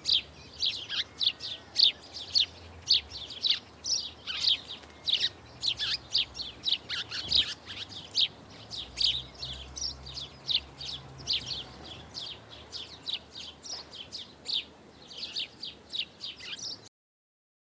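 Small garden birds chirping: a dense run of short, high chirps, several a second, that stops abruptly near the end.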